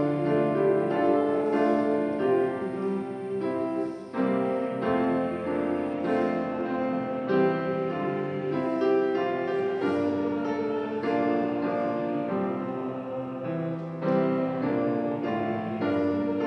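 Church keyboard playing slow chordal hymn music, the chords changing every second or so, between the sung lines of an evening canticle.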